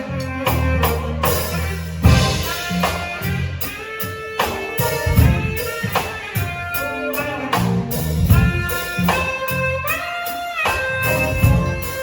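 Instrumental band music: repeated drum hits and a pulsing bass line under a melody of held notes that slides up about ten seconds in.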